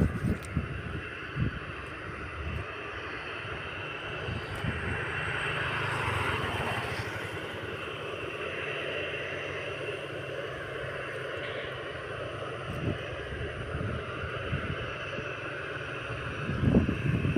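Distant jet airliner engines: a steady rumble and hiss that swells gently about five to eight seconds in.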